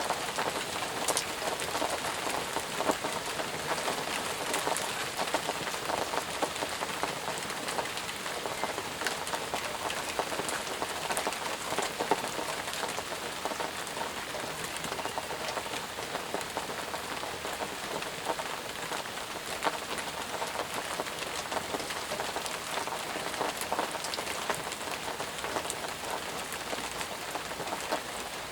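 Steady rain falling, a dense hiss of drops with many individual drop ticks close by, even throughout.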